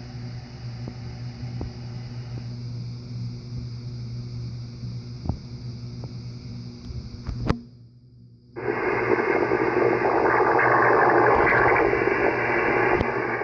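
Icom IC-7300 transceiver's speaker playing local electrical interference: a steady hum with a few faint ticks, then after a short cut about eight seconds in, a loud, harsh wash of noise filling the receiver's audio.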